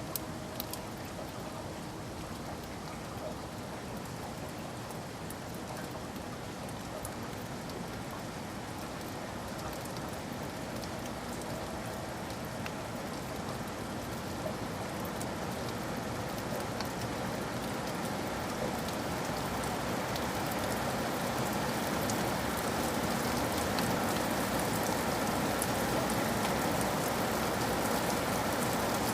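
Rain falling steadily, with scattered sharp drop ticks, growing gradually louder and denser through the second half.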